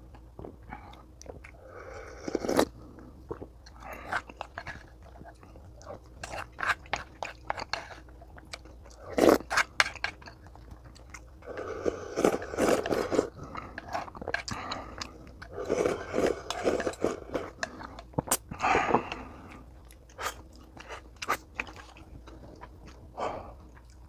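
Close-miked chewing and crunching of food from a meal of sundae gukbap with kimchi and cubed radish kimchi, coming in irregular bursts of bites with short pauses between.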